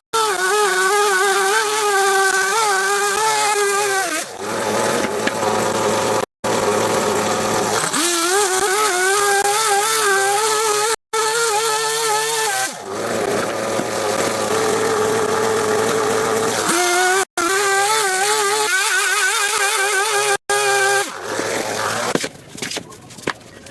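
A small engine running at high speed, its pitch wavering up and down, broken off abruptly several times; near the end it drops away to quieter scattered noises.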